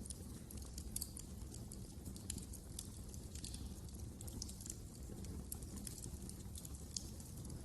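Wood fire crackling in a fireplace: irregular sharp pops and snaps over a low rumble of burning.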